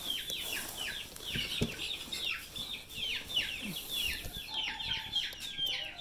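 Small birds chirping without a break, short quick chirps that fall in pitch, several a second. Under them, during the first part, is a faint rustle of dry chopped fodder being stirred by hand.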